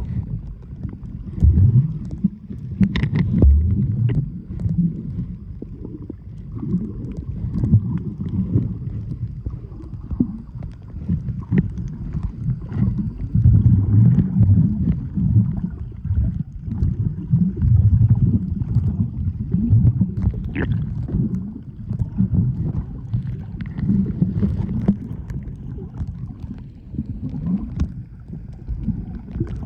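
Seawater sloshing, with a low, uneven rumble rising and falling throughout, and a few faint knocks.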